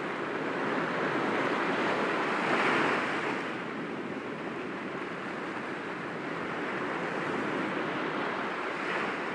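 Sea waves breaking gently against rocks, a continuous wash of surf that swells to a louder break about three seconds in and again near the end.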